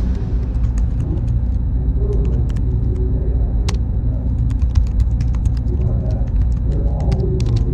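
Server-room ambience: a deep, steady rumble of machines with scattered sharp clicks throughout. A thin, steady high whine comes in about a second and a half in.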